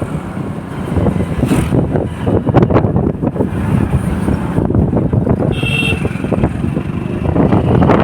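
Motorcycle riding on the road: steady engine and road noise, with a short high beep about two-thirds of the way in.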